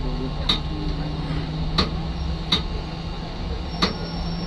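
Inside a city bus, the engine runs with a steady low hum. Four sharp clicks or rattles from the cabin are spread through it.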